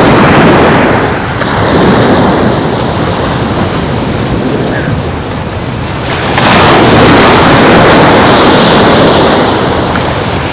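Surf washing onto a beach in surges: a swell near the start, another about two seconds in, and the loudest, longest one about six seconds in, with wind on the microphone.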